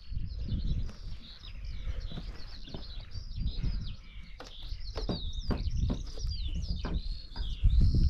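Small birds chirping and singing repeatedly, with a few sharp knocks in the second half and a low rumble underneath.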